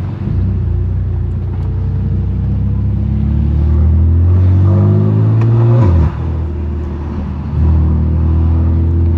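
BMW F80 M3 Competition's S55 twin-turbo inline-six on a straight-piped exhaust with a single mid-pipe, accelerating with its pitch climbing for about six seconds, then dropping sharply at a gear change and pulling on loudly again.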